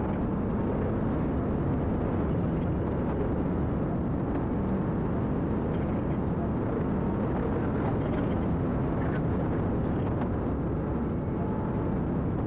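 Steady engine and road noise of a moving vehicle, a dense even rumble with no distinct events.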